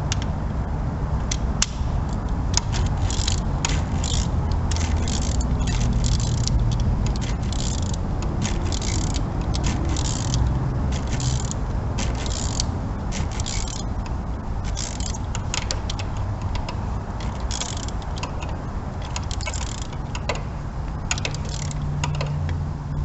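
Ratchet wrench clicking in repeated short strokes as a spark plug is turned in the cylinder head, over a steady low hum.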